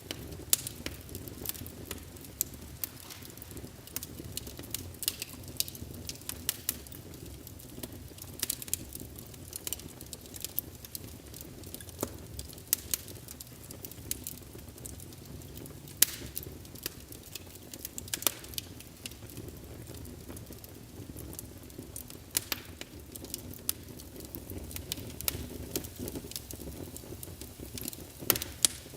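Log fire burning in a fireplace: irregular sharp crackles and pops from the burning wood over a low, steady rumble of the flames.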